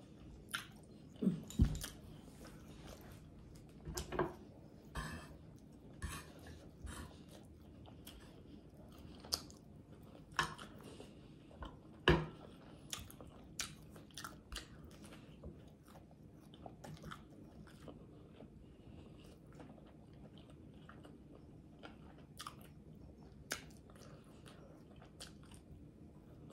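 Close-up eating sounds: biting into and chewing crisp fried pork chop, with irregular crunches and wet mouth clicks. The loudest bites come about a second and a half in and about twelve seconds in.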